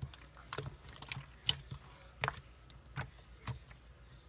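A series of about seven short, sharp clicks or taps, irregularly spaced roughly half a second to a second apart.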